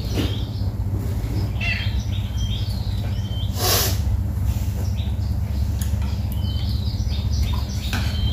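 Small birds chirping in short runs of quick high notes, over a steady low hum, with a brief rush of noise near the middle.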